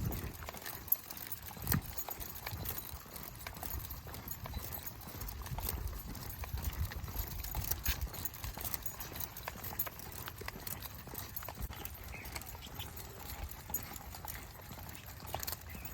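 Steady walking footsteps on a dirt trail, with scattered light clicks and scuffs.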